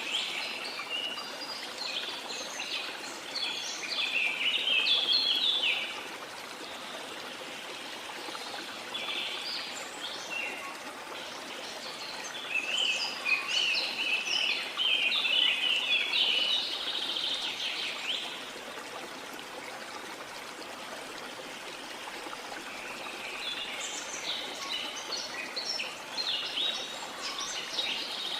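Birds chirping and singing in several bouts over the steady rush of a flowing river.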